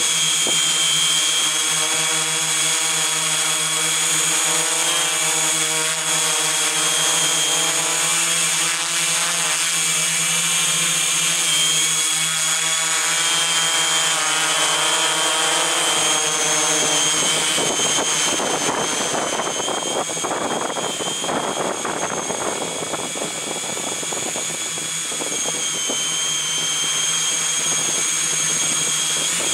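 Multirotor drone's electric motors and propellers running in flight: a steady high whine with lower tones that shift as the motors speed up and slow down. From a little past halfway, a gusty rushing of wind mixes in.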